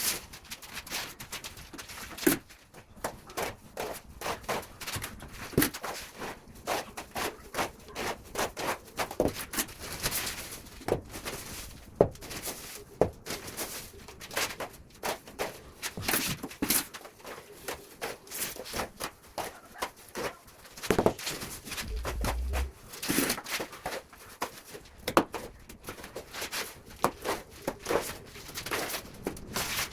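Plastering trowel working mortar onto a window-opening base: irregular scrapes, taps and knocks of steel on wet cement mortar as it is spread and levelled.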